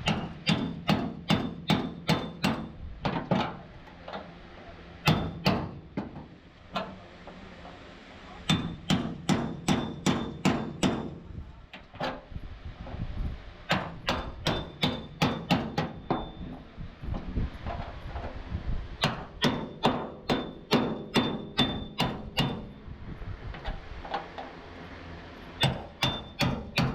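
Hammer blows on the sheet metal of a damaged Mercedes truck cab being beaten back into shape: quick runs of about three strikes a second with a slight metallic ring, stopping and starting again every few seconds.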